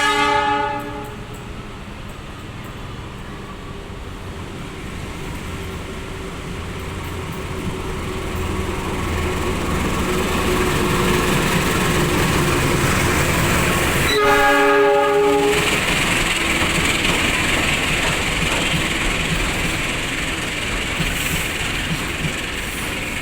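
Freight train's diesel locomotive sounding its horn in a short blast at the start and again about fourteen seconds in. Between the blasts the rumble of the train grows steadily louder.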